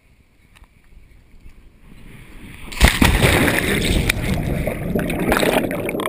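A sudden loud splash into lake water about three seconds in, followed by several seconds of churning, sloshing water.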